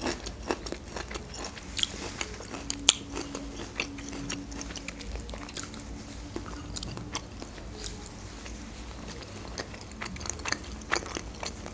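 Close-miked chewing and biting of thinly sliced soy-sauce fried beef, with scattered wet mouth clicks.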